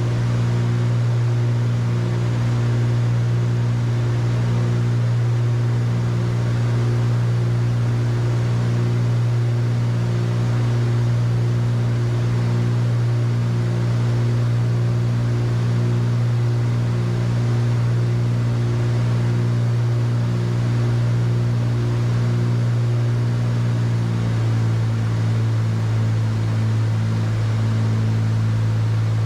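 Cessna 310Q's twin piston engines and propellers droning steadily in cruise, heard inside the cabin, with a slow regular pulsing in the sound. About 24 seconds in, the pitch drops slightly.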